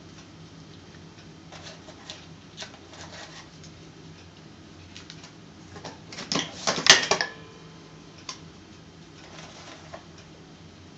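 Top-O-Matic lever cigarette-rolling machine being handled: scattered rustling and small clicks, then a dense burst of rattling clicks about six to seven seconds in, the loudest part, followed by a few more faint clicks.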